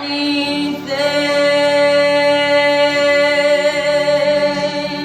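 A woman singing a worship song, holding one long note that starts about a second in and fades near the end.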